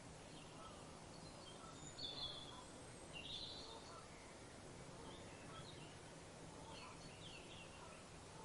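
Faint bird calls over a steady background hiss: two short, brighter chirps about two and three seconds in, then a few fainter ones later.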